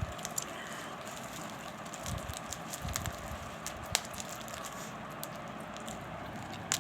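Parrot nibbling and crunching a small tikki with its beak: faint scattered clicks and crackles over a steady background hiss, with a sharper click about four seconds in and another near the end.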